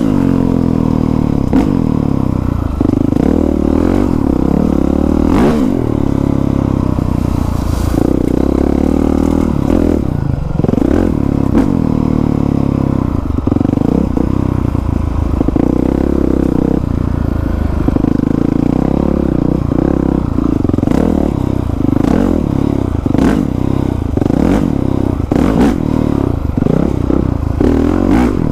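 Honda CRF450R single-cylinder four-stroke dirt bike engine running hard, the revs rising and falling again and again as the throttle is worked, with the rear wheel spinning and sliding on wet leaves. Short clatters and knocks from the bike run throughout.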